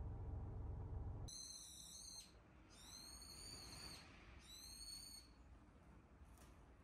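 A bird calling three times: clear, high calls with a slightly arched pitch, each about a second long. A low rumble cuts off suddenly just over a second in.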